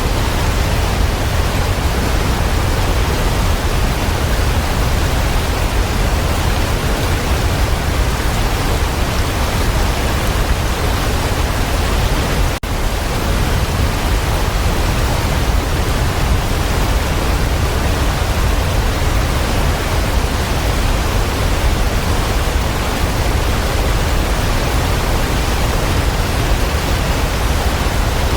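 Waterfall: a steady, heavy rush of falling water, deepest in the low end, with a split-second dropout near the middle.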